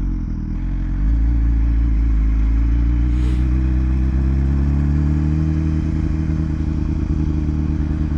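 BMW S1000RR sport bike's inline-four engine pulling along at low speed, its pitch climbing slowly for several seconds and then holding steady, with a brief hiss about three seconds in.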